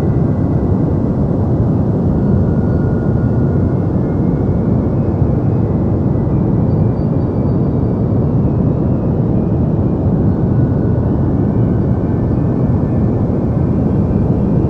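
Deep white noise: a steady, even hiss weighted toward the low end, like a soft rumble, with no change in level or character.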